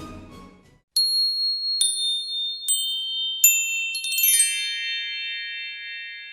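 Background orchestral music fades out, then a glockenspiel-like chime is struck four times, one note at a time. A quick sparkling run of chimes follows and rings on, slowly fading.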